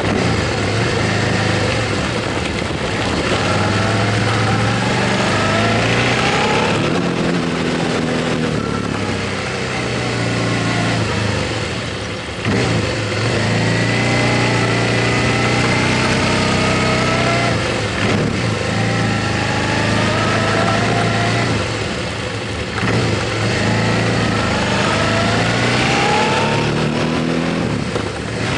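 Motorcycle engine heard while riding, accelerating through the gears: its pitch climbs several times and drops back with a short dip at each gear change, over a steady rush of wind and road noise.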